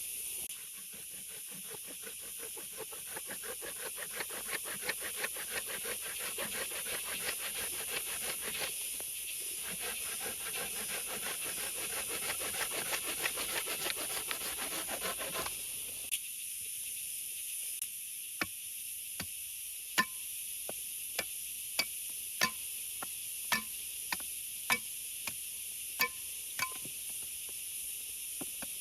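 Steady rain hiss. For the first half, fast rasping strokes run under it; after that, sharp separate ticks come about once a second.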